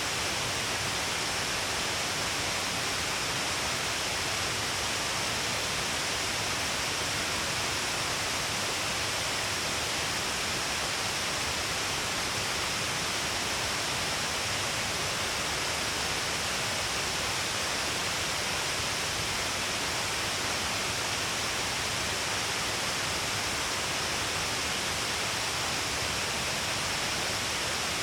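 Shiraito Falls' many curtain-like streams pouring down the cliff, a steady, unbroken rush of falling water.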